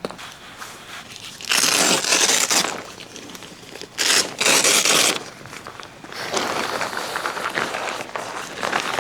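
Crinkling and rustling, as of plastic or fabric being handled, in two loud bursts about a second long each, then a longer, softer stretch.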